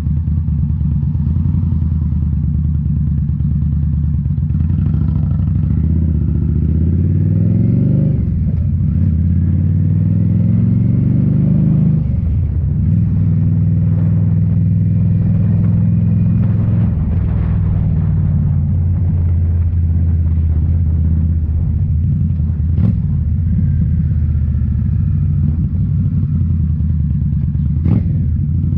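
A 2018 Indian Scout Bobber's V-twin running through Rinehart slip-on mufflers. It pulls up through the gears, its pitch climbing and then dropping at gear changes about eight and twelve seconds in, then settles to a steady cruise.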